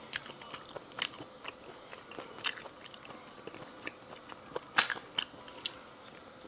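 Close-miked eating sounds: a person chewing seasoned sea snails, with irregular sharp wet mouth clicks and smacks, a few of them louder.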